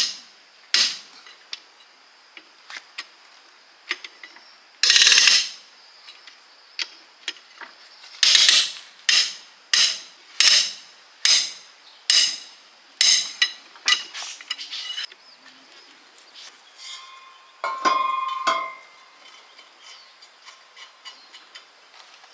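Hand tools clinking and knocking on steel transmission parts: scattered sharp metal strikes, then a steady run of about a dozen blows roughly every two-thirds of a second, and near the end a metal part ringing briefly.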